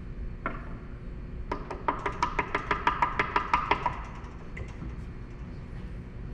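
Table saw setup being adjusted: one click, then a quick even run of ringing metallic clicks, about six a second for a little over two seconds.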